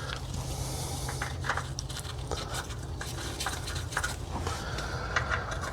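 Scattered light clicks and taps of hand work on a car, with a steady low hum underneath.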